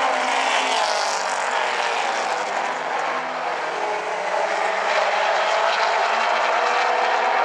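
Pack of late model stock cars racing around a short oval track, their V8 engines at full throttle in a steady, loud blend of several engines, their pitch rising and falling slightly as the cars work through the turns.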